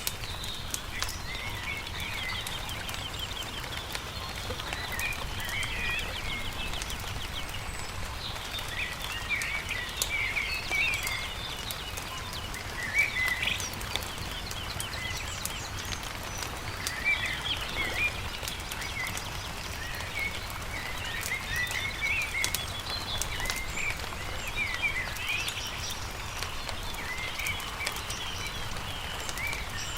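Birds chirping and trilling over the scattered crackle and pops of a wood campfire, with a low steady rumble underneath.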